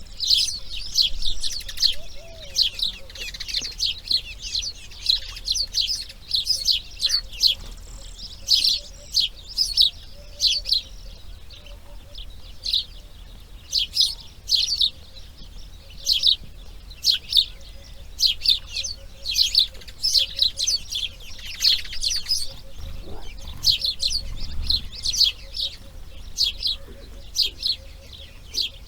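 Birds chirping: short, high calls repeated several times a second without a break, over a faint low rumble.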